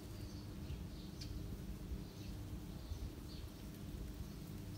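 Small birds chirping: a scatter of short, high calls, some sliding down in pitch, over a low steady rumble.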